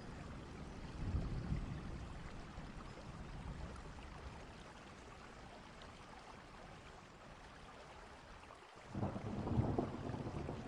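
Thunderstorm: steady rain with low rolling thunder. A rumble swells about a second in, and after a brief dip the thunder grows louder near the end.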